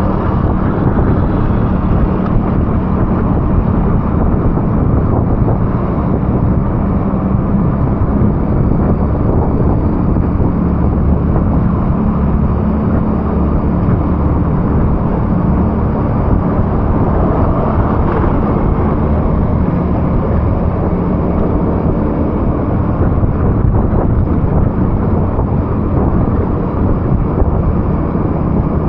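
Steady vehicle engine and road noise while driving through wet, rainy streets, with a low hum throughout and a slight swell about two-thirds of the way in.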